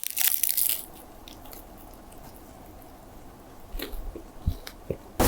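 Bite into a crispy fried spring-roll pastry roll (ropis), a loud crackly crunch at the start, followed by a few quieter crunches of chewing near the end.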